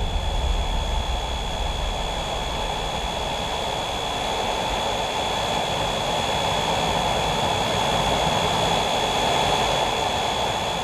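Lockheed P2V-5 Neptune airtanker's engines running steadily: a constant dense engine noise with a thin, steady high whine over it.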